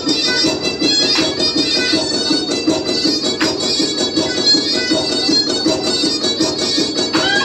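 Fast Black Sea horon dance music led by a droning, bagpipe-like reed melody over a quick, even pulse.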